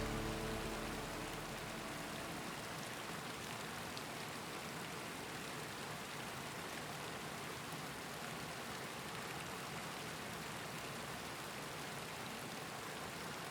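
The tail of the music fades out in the first second or two, leaving a steady, even rush of flowing river water.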